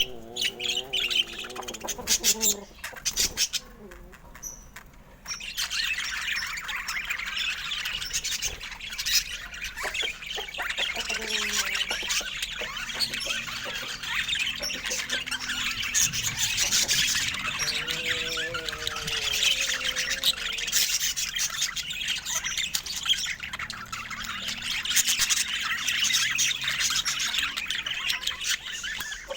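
Budgerigars chattering and chirping in a dense, continuous warble, with a short lull about four seconds in.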